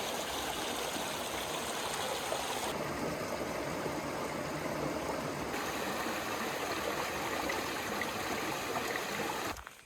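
Rushing water running steadily, cutting off suddenly near the end.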